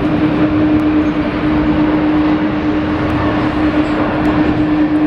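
Jet airliner engines running steadily, with one constant hum in the noise, mixed with strong wind buffeting the microphone.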